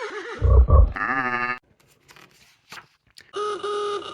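A man's voice imitating farm animals: low grunting, then a bleat. Near the end a steady horn beep sounds once.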